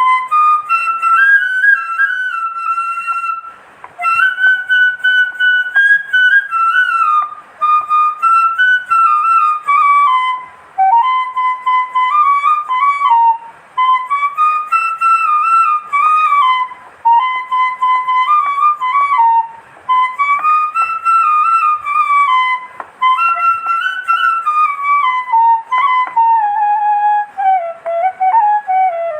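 Background music: a solo flute playing a melody in phrases, separated by short pauses.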